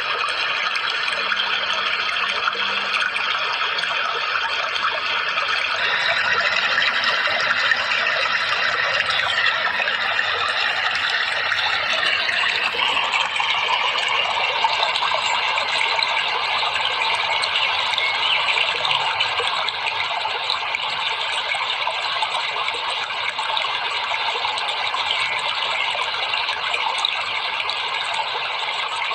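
Steady rushing water, an even hiss-like wash with a faint steady high tone running beneath it; the water's sound shifts slightly about twelve seconds in.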